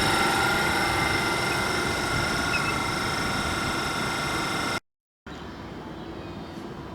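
A passenger train at a station platform, running with a steady whine made of several high tones over a rushing noise and easing slightly. The sound cuts off abruptly about five seconds in, and quieter station background follows.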